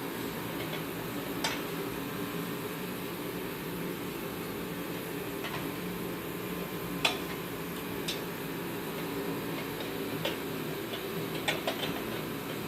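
Irregular light metallic clicks and taps of hand work on the heater's parts, about ten scattered through, over a steady low hum.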